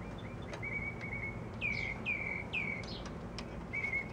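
A small bird chirping: a run of short quick chirps, then three down-slurred notes in a row a little over halfway through, then more chirps near the end. A few faint clicks sound under it.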